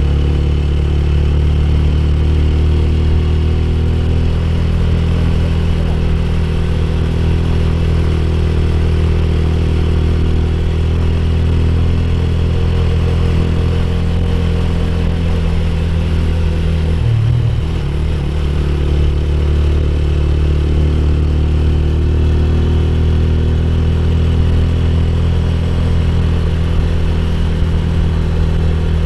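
Motorcycle engine running steadily while riding, with a brief dip and change in engine pitch about seventeen seconds in.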